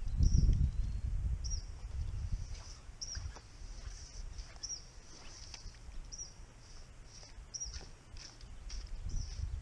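A songbird calling repeatedly, short high chirps about once a second, over a low rumbling noise that is loudest in the first second and rises again near the end.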